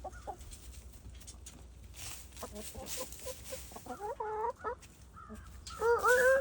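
Chickens clucking with a series of short calls. Near the end a loud, long, drawn-out call starts and is held on one note.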